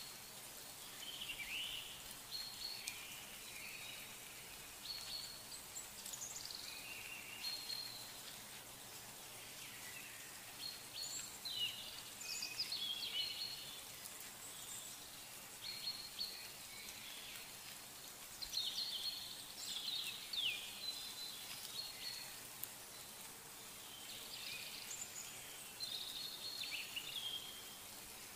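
Birds calling in the background: clusters of short chirps and gliding whistled notes every few seconds, over a steady faint outdoor hiss.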